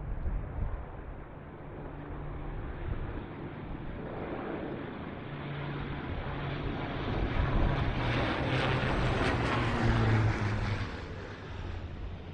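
Low-flying military jet passing by: its engine roar builds over several seconds, is loudest about eight to ten seconds in, drops in pitch as it goes past, then fades.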